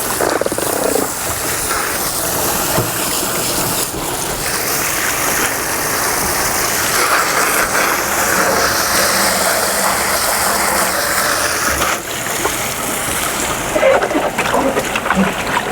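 Steady hiss of water spraying and splashing onto a boat's surface while it is washed down.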